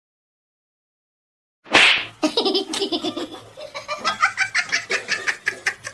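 Silence, then a sudden loud burst of noise about two seconds in, followed by a person laughing hard in rapid repeated bursts.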